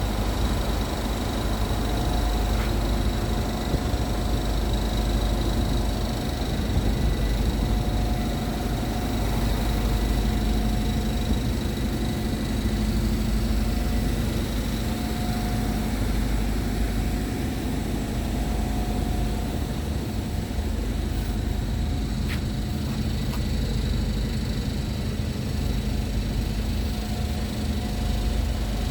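Scania P truck's diesel engine running steadily.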